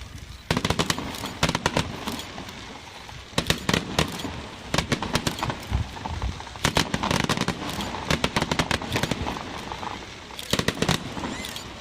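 Aerial fireworks crackling and popping in rapid clusters of sharp reports, about five salvos of a second or two each with short lulls between.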